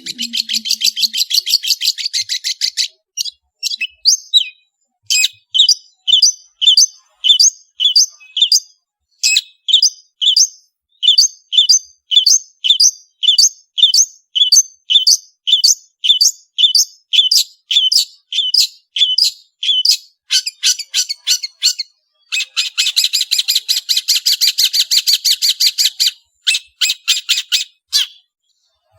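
Long-tailed shrike (cendet) singing: a fast scratchy chatter, then a long string of short high calls evenly spaced a little over one a second, then another fast chatter near the end.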